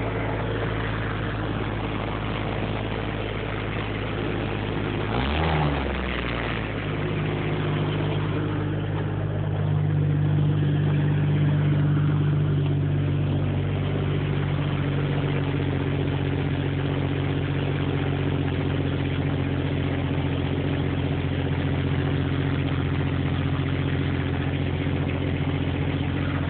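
Vehicle engine idling with an exhaust leak. About five seconds in it revs briefly and drops back, then runs on at a steady idle.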